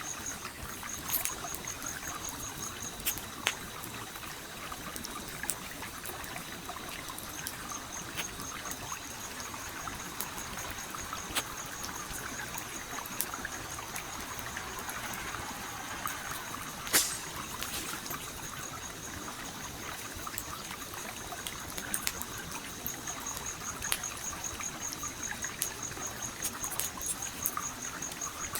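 Campfire crackling with scattered sharp pops, the loudest about 17 seconds in, over the steady trickle of a small stream. A high, rapidly pulsing trill comes and goes above them.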